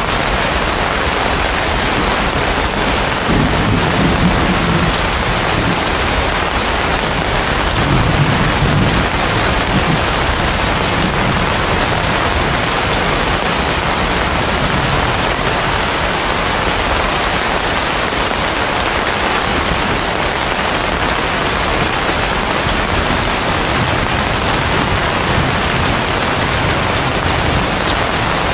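Heavy rain falling steadily on banana and palm leaves, a dense even hiss. Two low rumbles of thunder come through it, about three seconds in and again about eight seconds in.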